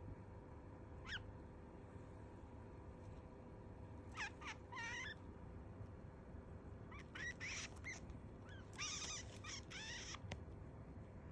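Zebra finch calling: one short call about a second in, then three clusters of quick, repeated calls, around four, seven and nine seconds in.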